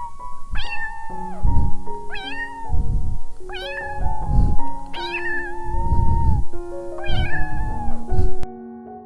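Domestic cat meowing repeatedly, about five meows each starting high and falling in pitch, over background music with held notes and low thumps.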